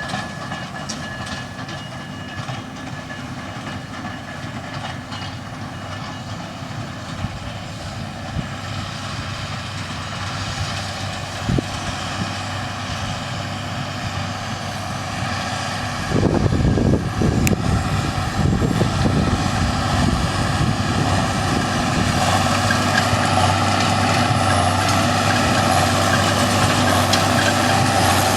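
Heavy vehicle running with a steady noise and a few steady tones. It grows louder about sixteen seconds in, with a sudden surge of low sound.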